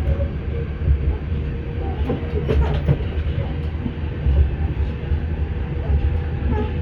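Cabin sound of an Auckland Transport AM class electric multiple unit running along the line: a steady low rumble with a thin steady hum, and a short run of wheel clicks over rail joints about two and a half seconds in.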